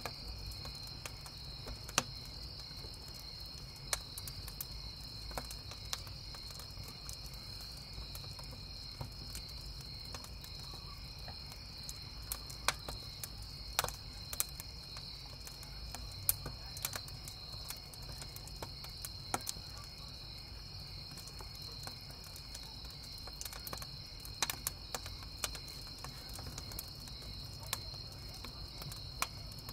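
Wood campfire crackling, with sharp pops at irregular moments over a steady high chorus of crickets chirping.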